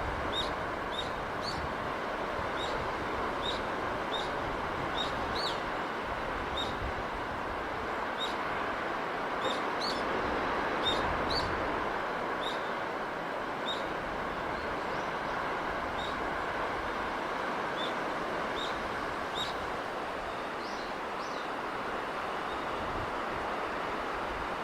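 Steady, even wash of sea and breeze, with a small bird repeating short high chirps about once a second over it.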